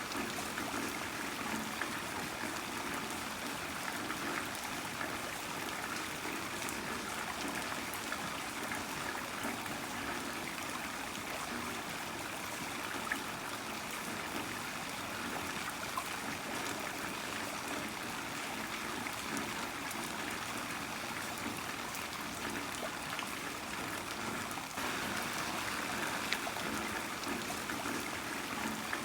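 Heavy rain falling steadily, with runoff water streaming and trickling and scattered sharper drops; it swells slightly near the end.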